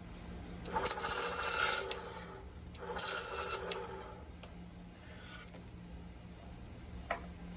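Cuttlebone being cut: two scraping strokes, each about a second long, then a faint click near the end.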